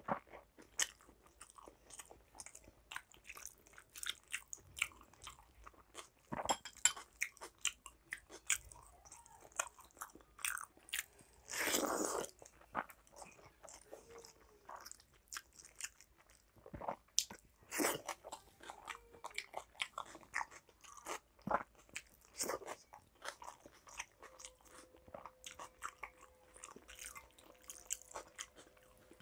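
A person chewing and crunching a meal of watered rice with fried sides, close to the microphone: many short crunches and wet mouth clicks, with one longer, louder noise a little before halfway through.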